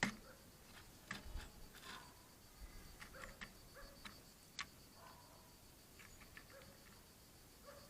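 Great spotted woodpecker tapping with its bill: faint, irregular single taps spaced unevenly, not a fast drumming roll.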